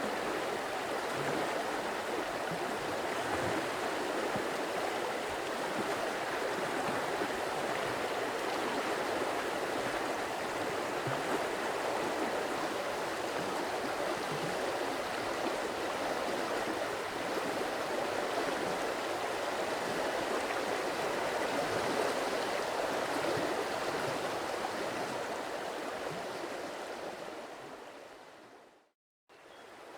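Stream water flowing steadily. Near the end it fades out to a moment of silence, then starts again.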